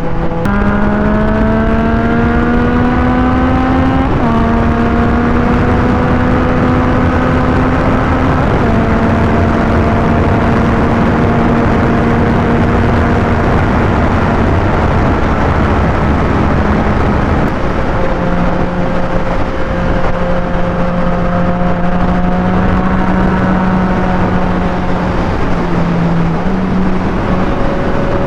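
Motorcycle engine pulling hard through the gears, its pitch climbing and dropping back with upshifts about three times in the first nine seconds, then settling into a steady cruise with small changes in speed. A low rush of wind runs underneath.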